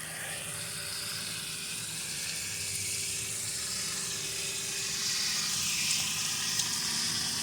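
Steady sizzling hiss from a pot of water heating for coffee over the camp cooking fire, growing slightly louder, with a faint steady hum beneath it.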